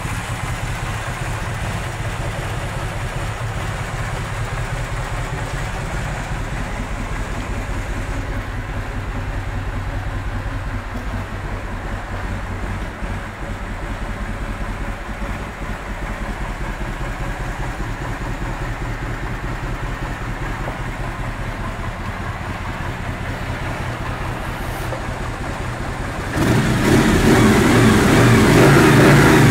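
Kawasaki Vulcan 2000's big V-twin engine idling steadily, then revved up near the end and held at higher revs for a few seconds.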